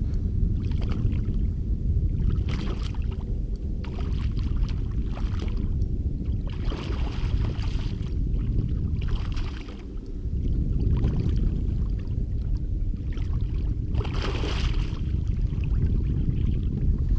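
Steady low rumble on a fishing boat on the river, briefly dropping away about ten seconds in, with a few short hissing bursts now and then.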